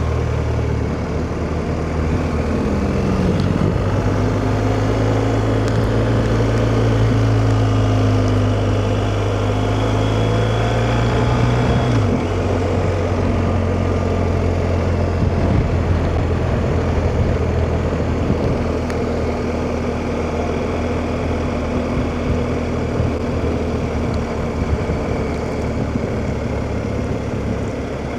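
BMW R1250GS boxer-twin motorcycle engine running steadily under way, with road and wind noise; the engine note drops about twelve seconds in.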